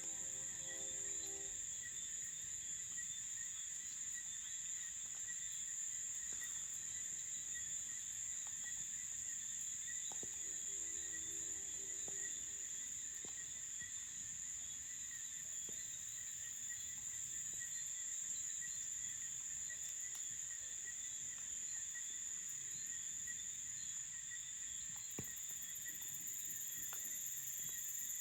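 Night chorus of crickets: a steady, unbroken high-pitched trill. A faint, low pitched call is heard twice, once at the very start and again about ten seconds in.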